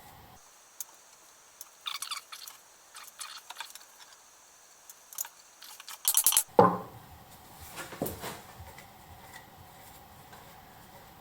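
Wood and metal knocking and clicking as a bowl blank on its mandrel is worked into place between the centres of a pole lathe: small scattered clicks and taps, with a louder cluster of knocks about six and a half seconds in.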